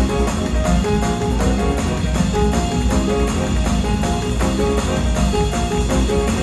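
Live gospel band playing an instrumental passage: drums and a heavy bass under short, repeated melodic notes in a steady rhythm, with no singing.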